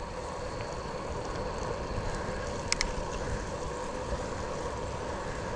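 Steady wind and tyre noise from a bicycle rolling along a wet trail, with one brief high squeak about halfway through.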